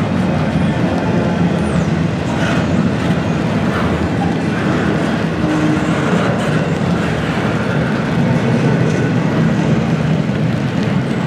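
Double-stack intermodal container cars of a freight train rolling past, a steady low rumble of steel wheels on the rails.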